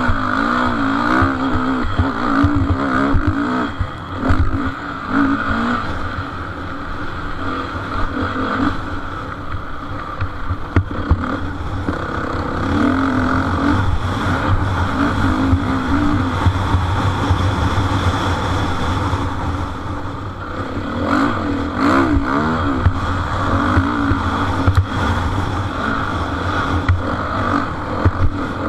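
Motocross bikes racing round the track, their engines revving up and down continuously as riders work the throttle through the course.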